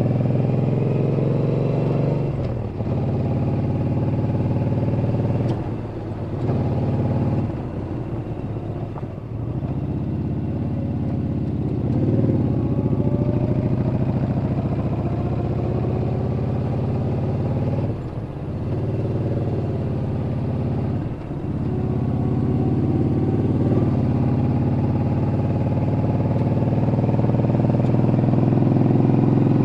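Yamaha Bolt XVS950CU air-cooled V-twin running under way. The engine note dips briefly several times and climbs in pitch again after each dip, as the throttle closes and reopens.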